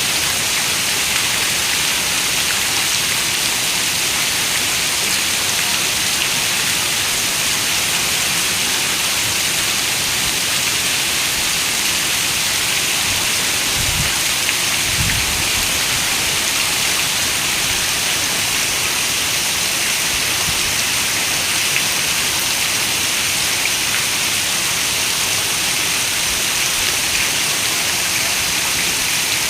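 Steady rain falling on a window glass, an even hiss with no breaks. Two brief low rumbles sound about halfway through.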